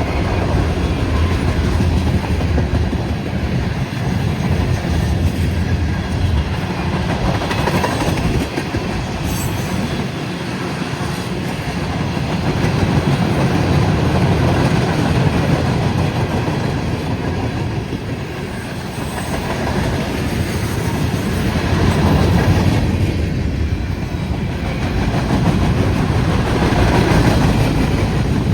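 Freight train's cars rolling past: a steady rumble of wheels on rail with clickety-clack over the joints, swelling and easing in loudness.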